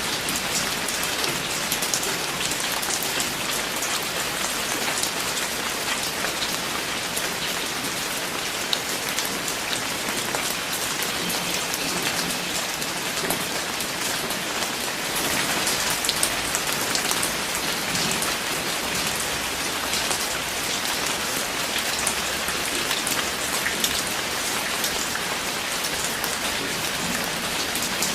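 Steady rain falling on a surface, a continuous hiss dotted with many individual drop ticks.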